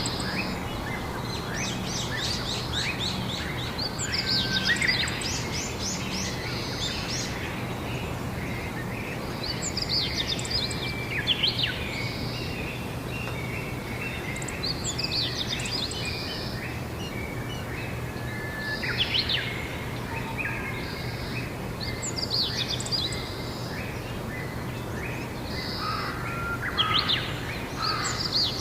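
Songbirds singing outdoors in short, rapid chirping phrases that come every few seconds. Underneath is a steady background hiss with a faint low hum.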